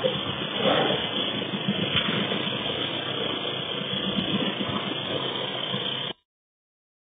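Car engine running as the police car manoeuvres, heard as a steady, muffled rumble through a low-quality recording. The sound cuts out to complete silence about six seconds in.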